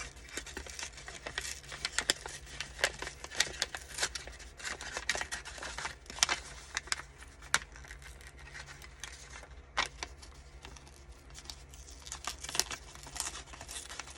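Paper envelope being pulled apart by hand at its glued seams: crinkling, rustling and short tearing sounds with many small clicks, thinning out for a few seconds past the middle.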